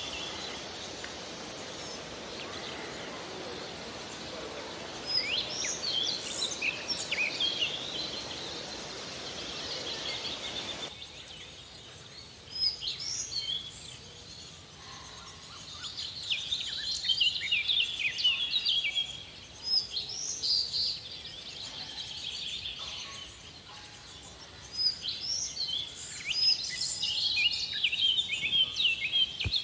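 Songbirds singing in bursts of quick, high chirping phrases, with pauses between them. Under them runs a steady background hiss that drops away about eleven seconds in.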